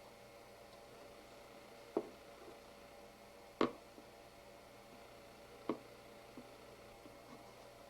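Quiet room hum broken by three sharp, short taps, the middle one the loudest, followed by a few softer ticks near the end.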